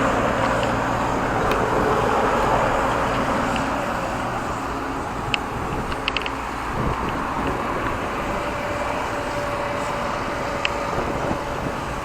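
Steady road traffic noise, loudest at the start as a vehicle passes and fades away, with a few light clicks scattered through it.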